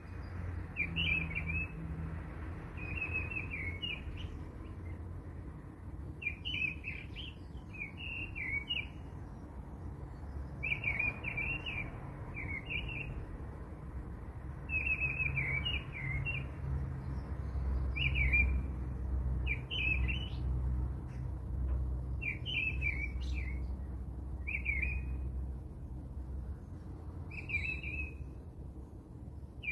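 Small birds chirping in short twittering phrases, one about every second, over a low rumble that grows heavier about halfway through.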